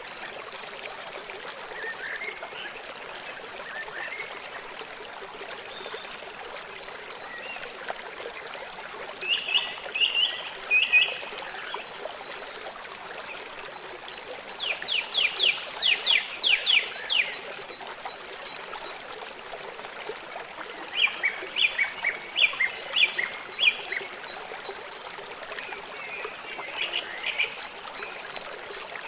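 Forest stream trickling steadily, with a bird calling in four short phrases of quick repeated high notes.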